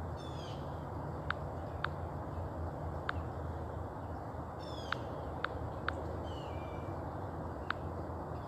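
Birds calling outdoors: three short falling calls and scattered sharp chip notes, over a steady low hum.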